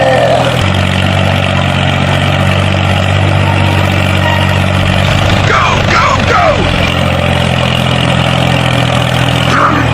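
Tractor engine idling steadily, with a slight step in pitch about half a second in. Short sliding, voice-like sounds come over it about five to six seconds in and again near the end.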